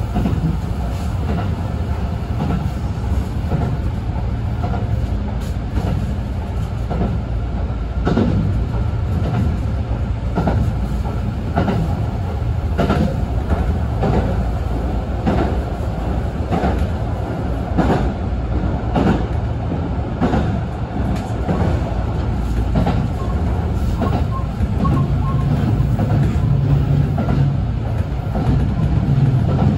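Kintetsu express train running at speed, heard from inside the car. There is a steady low rumble, and the wheels click over rail joints in runs of clacks through the middle of the stretch.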